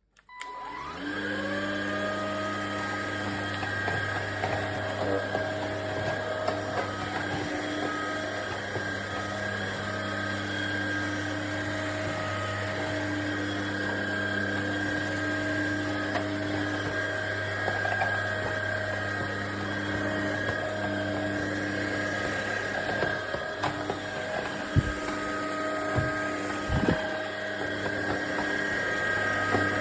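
Cordless stick vacuum's motor switched on, spinning up within about a second to a steady high whine and running on. A couple of short knocks come late on.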